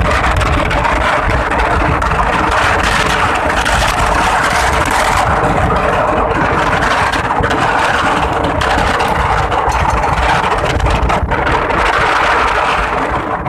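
A motor running steadily, mixed with strong wind buffeting the microphone.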